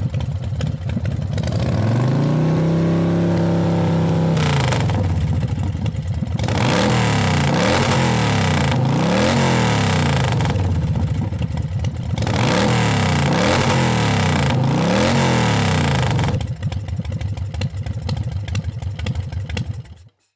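Motorcycle engine being revved: one long rev held for a couple of seconds, then a run of throttle blips rising and falling about once a second, before the sound cuts off near the end.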